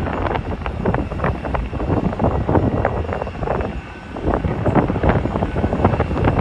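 Wind buffeting the phone's microphone in irregular gusts, over the steady rumble and faint whine of an airliner's jet engines; the gusts ease briefly about four seconds in.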